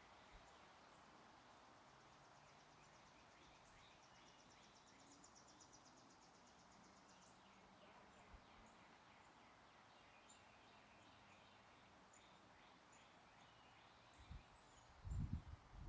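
Faint outdoor birdsong over a steady background hiss, with a rapid high trill about four seconds in and scattered high chirps after it. Near the end, low rumbling gusts of wind hit the microphone.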